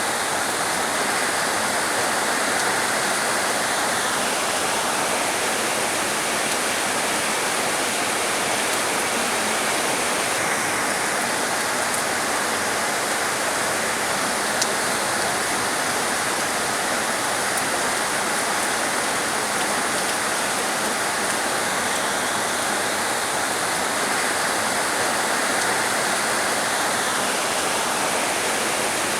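Heavy rain pouring steadily: an even, unbroken rushing hiss.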